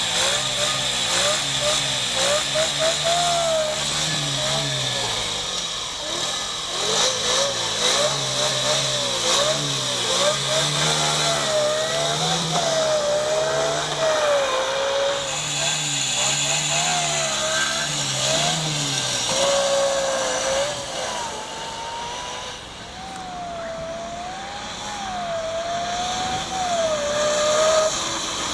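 Supercharged Honda Monkey Z50's small single-cylinder four-stroke engine revving up and down over and over, with a whine rising and falling in pitch along with it. The revs drop back and the sound is quieter for a few seconds after about 22 seconds in, then climbs again.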